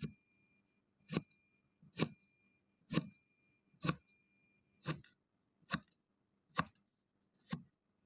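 Kinetic sand being cut with a knife or cutting tool: nine short, crisp crunching strokes at an even pace of about one a second.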